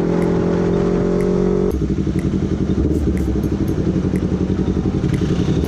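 Suzuki GSX150's single-cylinder engine running through a noisy exhaust. It holds steady at raised revs, then about two seconds in drops back to a lower, choppy, pulsing idle.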